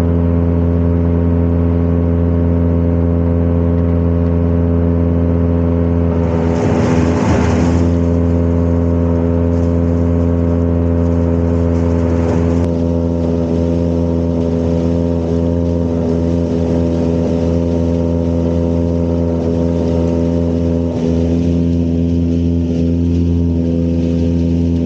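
Tractor-driven silage blower running steadily, a loud droning hum, as chopped silage is blown up into the tower silo. A brief rushing noise comes about seven seconds in.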